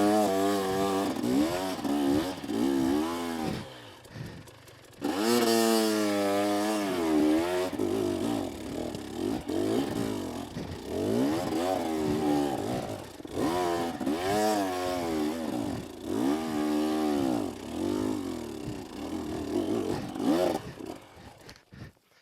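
A KTM 250SX's two-stroke dirt bike engine revving up and down again and again under load, as on a hard climb. It drops away briefly about four seconds in, then picks up again, and stops near the end.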